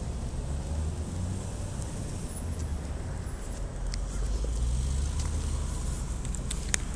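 Road traffic rumble that swells about four to six seconds in as a vehicle passes, with a few sharp clicks near the end.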